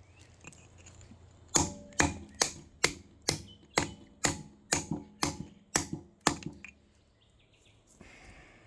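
A hammer striking a large chunk of milky quartz, about eleven quick blows, roughly two a second, each with a short metallic ring. The blows are crushing the rock's surface rather than splitting pieces off.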